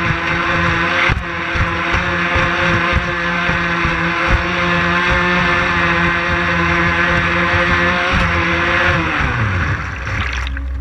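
Electric RC catamaran's twin 5200kv brushless motors running at speed: a steady whine over rushing water and wind, with short low knocks. Near the end the pitch slides down as the throttle comes off.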